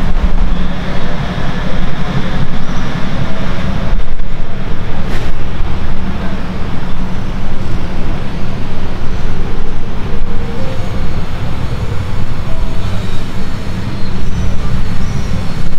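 Mercedes SLR McLaren's supercharged V8 idling with a steady low rumble.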